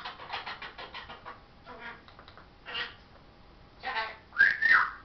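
Pet parrot making a quick run of clicks and a few short squawky calls, then a loud whistle near the end that rises and falls in pitch.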